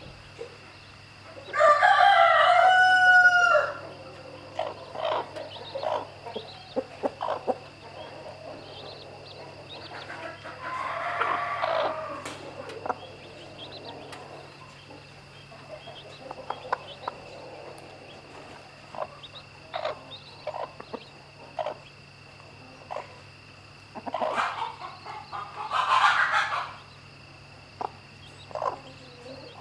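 A rooster crowing, one loud crow of about two seconds shortly after the start, with fainter crows or calls around the middle and near the end and short clucks and pecking clicks in between.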